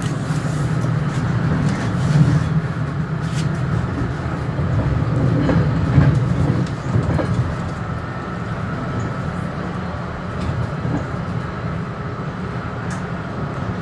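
Metro-North commuter train running along the track, heard from inside the front car: a steady low rumble of wheels and running gear, with a few sharp clicks from the wheels over rail joints, loudest around two and six seconds in.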